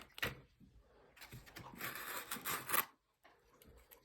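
Model train packaging being handled: a click, then about a second and a half of rubbing and rustling as the HO scale well cars are slid out of their foam and styrofoam inserts.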